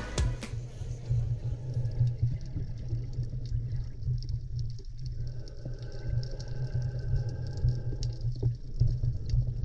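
Muffled water noise: a steady low rumble with faint crackles and ticks.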